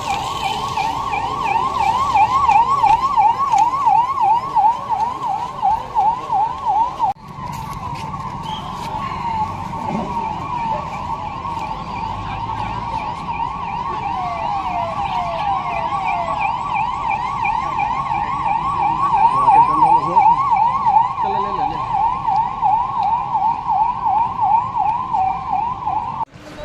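Electronic emergency-vehicle siren in a fast yelp, rising and falling about four times a second. It breaks off briefly about seven seconds in, slows for a moment in the middle and then speeds up again, and stops suddenly near the end.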